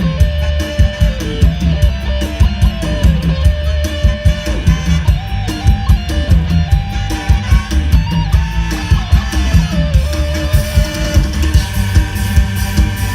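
Live Isan band music: a plucked-string melody over drum kit and a heavy bass, with a steady beat.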